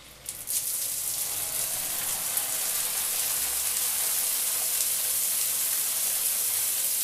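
Water running with a steady hiss, played as a recorded water sound; it comes in about half a second in and holds level.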